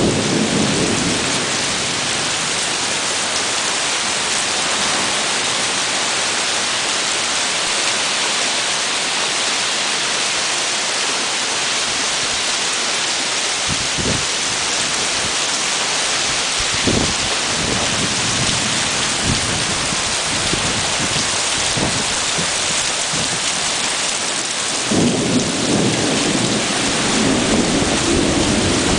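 Thunderstorm: heavy rain hissing steadily, with thunder rumbling. A rumble fades out at the start, a few brief low thumps come in the middle, and a louder rumble of thunder builds near the end.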